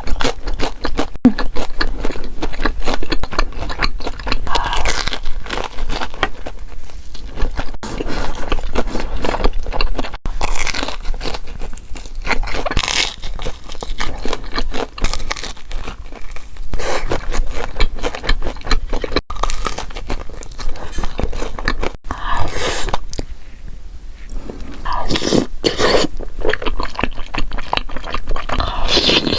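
Mukbang eating sounds: crunchy biting and chewing of food, repeated throughout.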